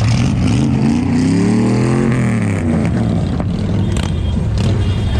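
Car engine revved once: its pitch climbs for about two seconds, then drops back toward idle.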